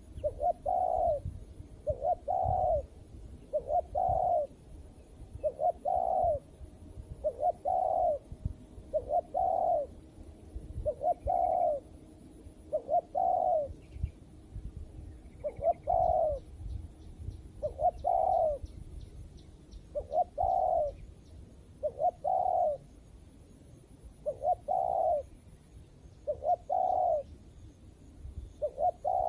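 Spotted dove (tekukur) cooing: a long series of short, low coos at about one a second, with a brief pause near the middle. A faint steady high whine runs underneath.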